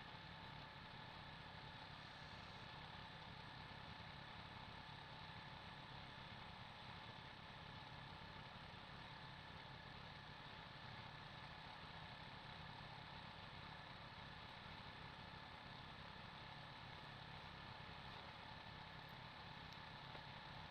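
Exmark Lazer Z E-series zero-turn mower's engine running steadily and faintly, with a constant hum and no changes in speed.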